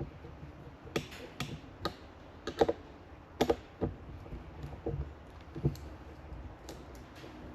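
Irregular light clicks and taps of small tools and metal parts being handled while a motorcycle brake master cylinder is reassembled, about a dozen sharp separate clicks.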